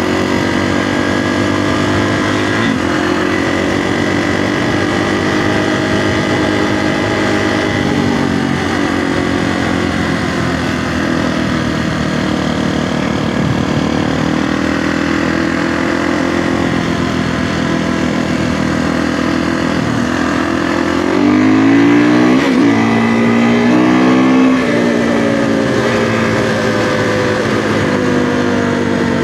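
Kawasaki KX450F single-cylinder four-stroke dirt bike engine running under way, its pitch rising and falling with the throttle. About 21 seconds in it is revved harder and louder for a few seconds, then settles back.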